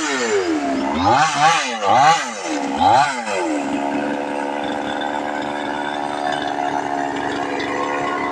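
260 hp tractor's diesel engine revved up and down several times in quick succession, then held at a steady high speed from about three and a half seconds in.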